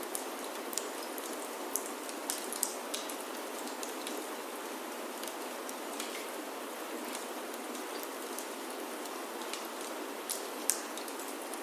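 Steady rain falling on a wooden chalet roof, with sharp crackles and pops from a wood fire in a fireplace scattered through it; the loudest pop comes near the end.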